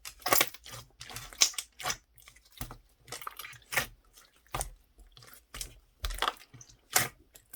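Irregular sharp crunching and crackling clicks, a few to several a second, close to the microphone.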